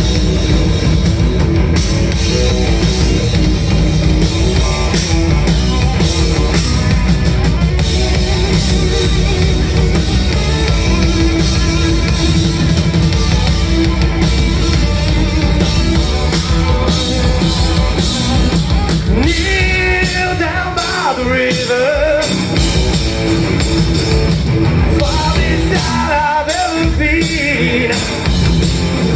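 Live rock band playing loud through a PA, with drum kit, bass and guitars. About two-thirds of the way in the bass and drums drop back and a bending lead line comes forward for several seconds, then the full band returns near the end.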